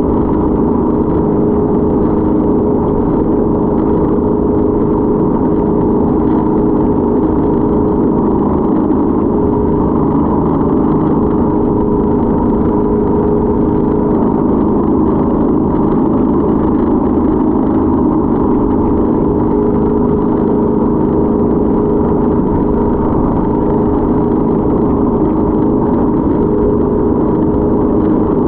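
Motorboat engine running steadily, an even drone with a few steady tones and no change in pitch.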